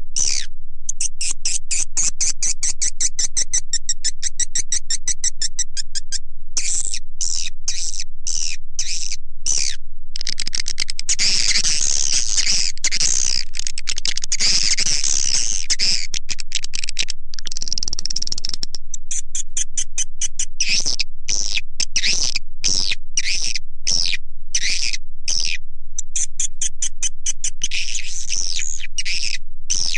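Swiftlet lure-call recording ('suara panggil'), of the kind played from swiftlet houses to draw edible-nest swiftlets in to roost and nest. High, clicky chirps repeat rapidly, several a second, and thicken into a dense twittering chorus midway and again near the end.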